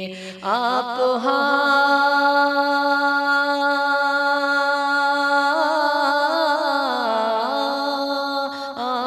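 Male voice singing a naat, drawing out one long wordless note: held steady for several seconds, then wavering in quick ornamental turns and stepping down in pitch about seven seconds in.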